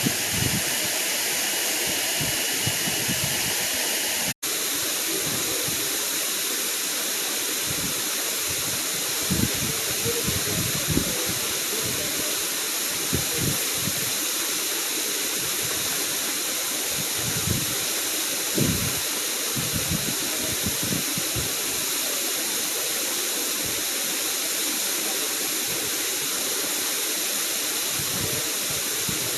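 Waterfall rushing in a steady, even hiss, with occasional low rumbles of wind on the microphone. A brief dropout about four seconds in, where the sound shifts slightly.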